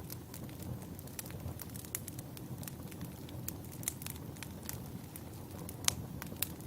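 Wood fire crackling: a steady low rumble of burning logs with frequent sharp pops and snaps. The loudest pop comes about six seconds in.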